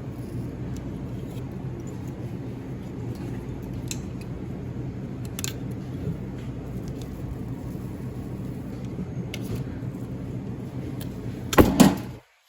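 Steady low machine hum with a few light clicks from small parts being handled, then a loud clatter near the end that cuts off abruptly.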